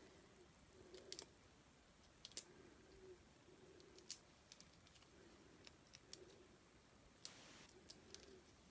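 Faint scattered clicks and ticks, with one short scratchy rustle about seven seconds in, from mini foam adhesive pads being peeled off their sheet and pressed onto a die-cut cardstock piece.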